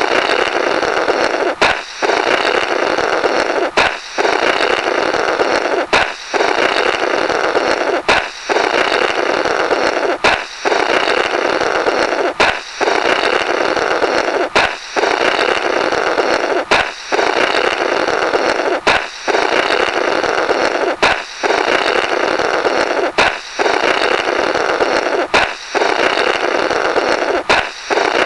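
Cartoon-style balloon pop followed by a spluttering 'blorrrt' of someone blowing through the burst balloon's remnants. The pop-and-blow sound effect repeats about every two seconds as a loop.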